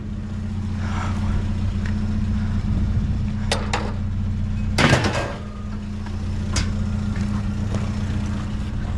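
A vehicle engine idling with a steady low hum, with a few sharp clicks and knocks about three to seven seconds in.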